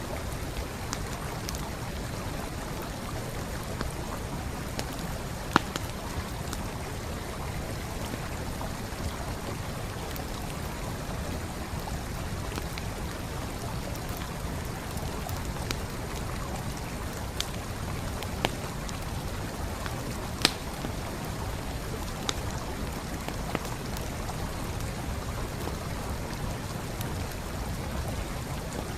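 A stream flowing steadily beside a wood campfire: an even rush of water with a few sharp, scattered pops of burning wood, the loudest about five and a half and twenty seconds in.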